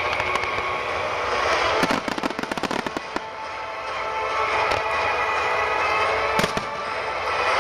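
Fireworks bursting over steady music: a rapid run of crackling pops about two seconds in, then a single sharp bang near the end.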